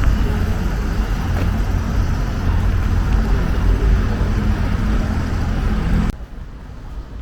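Steady low rumble of road traffic, which drops off abruptly about six seconds in.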